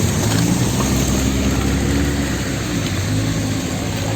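Street traffic in the rain: a vehicle engine running steadily close by, over an even hiss of rain and wet road.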